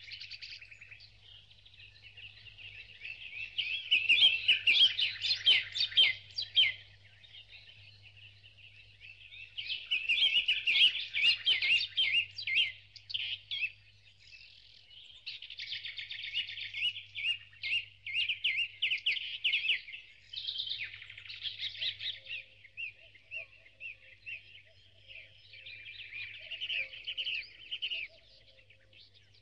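Birds chirping and twittering in a busy chorus of rapid high-pitched calls, swelling louder in spells a few seconds in and again about ten seconds in.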